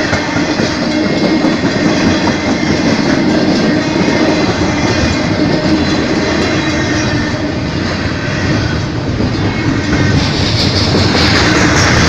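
Canadian Pacific train's cars rolling past at close range, wheels clacking over the rail joints in a steady, loud rumble. About ten seconds in, a hissing high-pitched rail noise grows louder.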